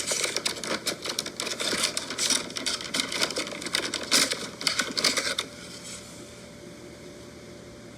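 Rapid, irregular clicking and crackling of plastic toy blister packaging and diecast cars being handled, for about five seconds, then only faint room tone.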